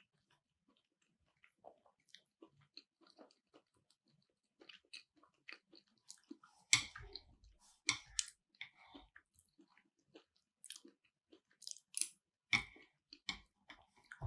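Close-miked chewing of keto sushi: soft wet mouth clicks and smacks, with a few louder sharp clicks around 7, 8 and 12 seconds in.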